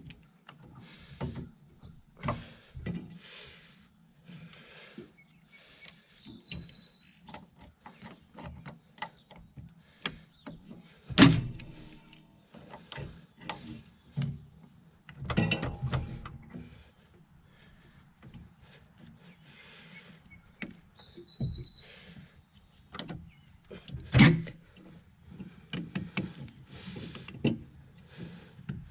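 Scattered clicks, clanks and knocks of hands and tools working a finish mower deck's belt tensioner, with two loud sharp knocks, one about eleven seconds in and one about twenty-four seconds in. Insects keep up a steady high-pitched trill behind it.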